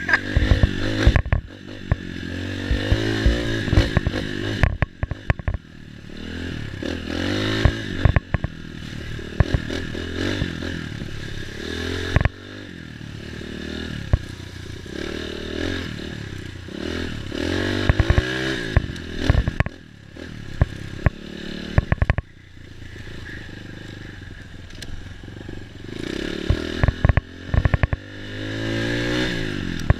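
Single-cylinder four-stroke dirt bike engine under way, revving up and easing off again and again, with many sharp knocks and clatters.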